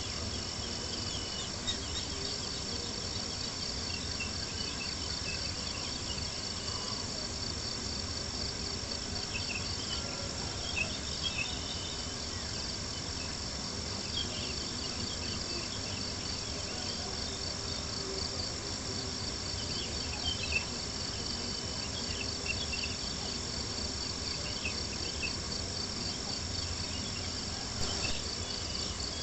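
Crickets chirping in a steady, rapid pulsing trill, over the low hiss of a campfire with scattered small crackles and soft lapping water.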